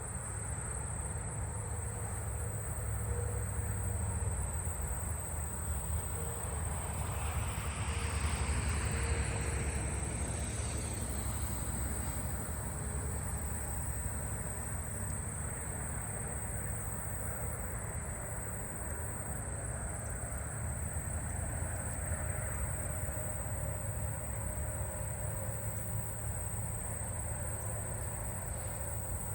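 Steady, high-pitched drone of calling insects, unbroken throughout, over a low background rumble; a wash of noise swells and fades about eight to eleven seconds in.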